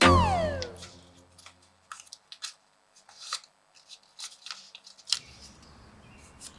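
A sheet of A4 paper being folded and creased: a scatter of short, crisp crackles and clicks. A music phrase fades out at the start.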